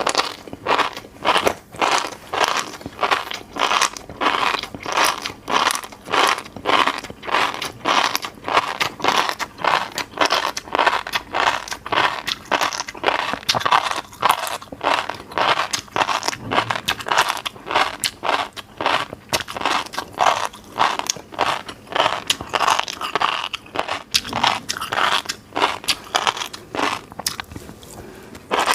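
Close-miked mouth chewing fish roe, a steady run of crisp crunching bites about three a second.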